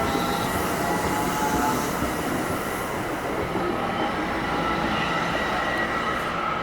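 A train rolling past, a steady rumble of wheels on rail with a faint thin squeal from the wheels.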